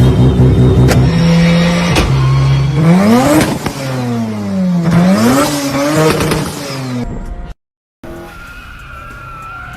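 Mazda RX-7's turbocharged rotary engine running loud. It holds a steady speed for about two seconds, then revs climb and fall several times. It cuts off suddenly near the end, and a quieter engine rising in revs follows.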